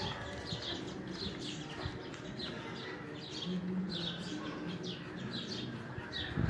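Small birds chirping over and over, short high falling chirps a few times a second.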